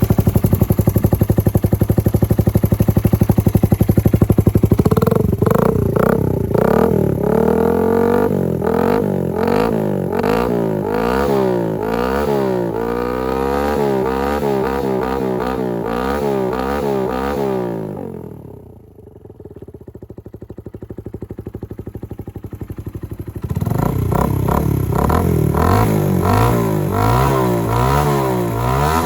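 Suzuki GN125H single-cylinder four-stroke engine with a Capton-style muffler, stationary: it runs at a steady fast idle, then is blipped over and over in quick rev-ups and drops. About 18 seconds in it falls back to a quieter low idle for a few seconds, then the quick revving starts again.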